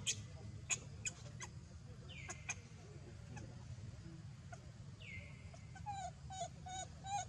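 Faint animal calls with scattered clicks: a falling squeal a couple of seconds in and another about five seconds in, then a quick run of about five short repeated calls near the end.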